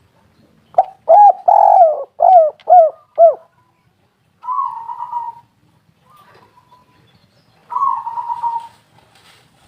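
Spotted dove cooing: a loud run of about six short, falling coos in about two and a half seconds, followed by two rougher, rolling notes about three seconds apart.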